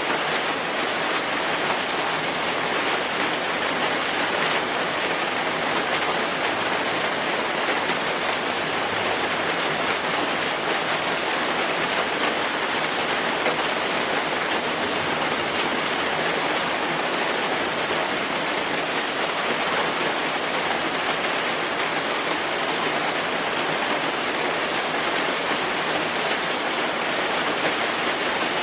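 Steady rain falling on a surface, an even hiss with fine patter of drops throughout.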